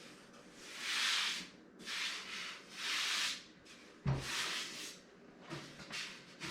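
Hands handling a PC case: several rubbing, sliding strokes about half a second each, with a dull knock about four seconds in.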